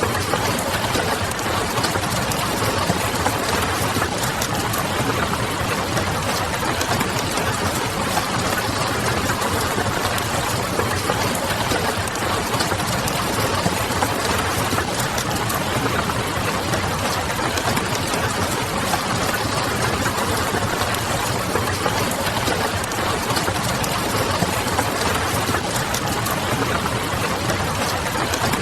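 Steady rain noise mixed with a low, even hum, with a few faint crackles of a wood fire.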